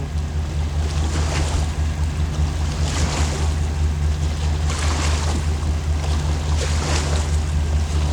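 Wind buffeting the microphone with a steady low rumble, while small waves splash and lap at the water's edge about every two seconds.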